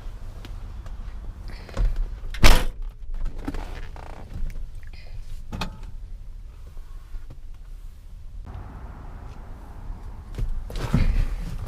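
A car door shutting with one loud thunk about two and a half seconds in, among smaller knocks and handling sounds, with a steady low rumble underneath.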